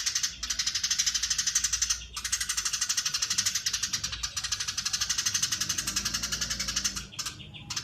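Eurasian tree sparrow giving a long, dense chatter: a fast, even run of high chirps, broken by brief pauses about two seconds in and again near the end.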